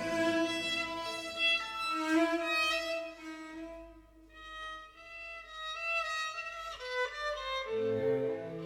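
Music led by a violin playing slow, held notes over lower strings; it thins to a soft passage midway, then fuller low notes come back in near the end.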